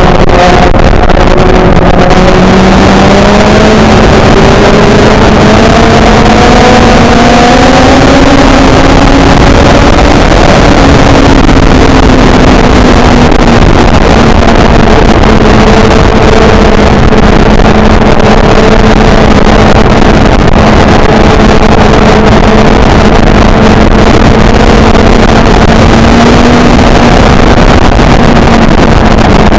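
Motorcycle engine running at a steady road speed, its pitch climbing gently for several seconds, easing back, then holding steady, under loud wind rush on the microphone.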